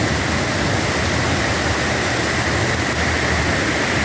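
Heavy rain pouring down in a steady, even hiss, with a low rumble of wind on the microphone underneath.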